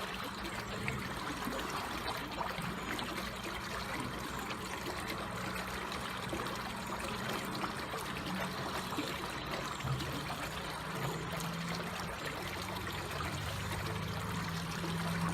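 Water flowing slowly and steadily, a continuous gentle trickle.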